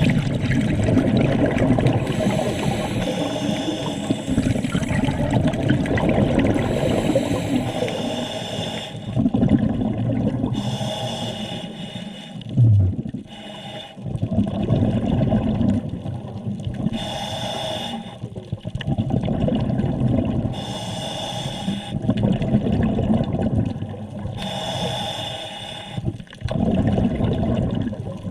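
Scuba diver breathing through a regulator underwater: an inhaling hiss, then a rumble of exhaled bubbles, repeating every few seconds. A brief low hum sounds about halfway through.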